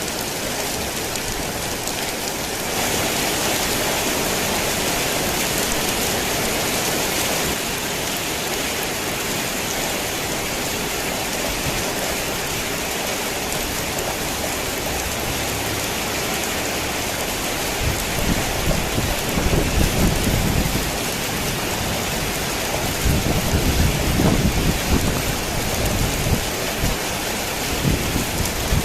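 Heavy rain drumming steadily on a tin roof, briefly louder for a few seconds near the start. Low thunder rumbles twice in the second half.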